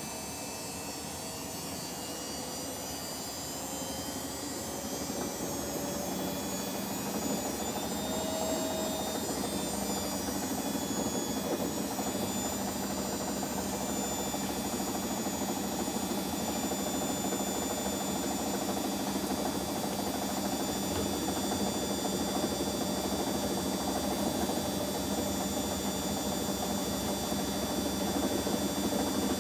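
Washing machines on a spin cycle, their drums speeding up with a rising whine over the first several seconds, then spinning steadily at speed.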